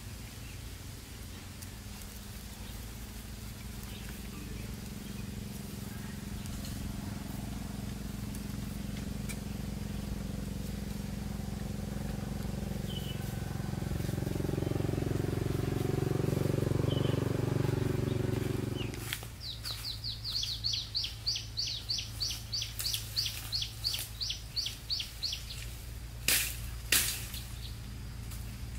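A low steady hum, like a distant engine, grows slowly louder and cuts off suddenly about two-thirds of the way through. A bird then calls in a fast run of high chirps, about four a second, for some six seconds. Several sharp knocks follow near the end.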